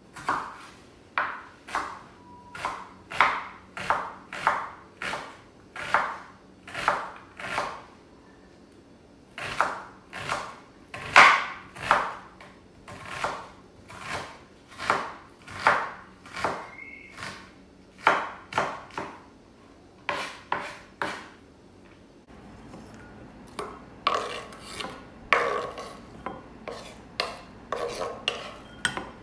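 Repeated scraping strokes of kitchen food preparation on a board, about two a second with short pauses. About two thirds through, after a cut, the strokes come quicker and busier.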